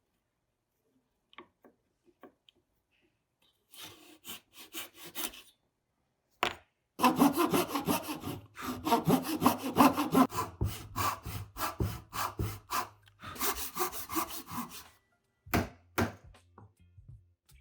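Hand saw cutting through wood in quick back-and-forth strokes. A short run of strokes comes first, then after a pause a longer steady run of about eight seconds, followed by a couple of sharp knocks.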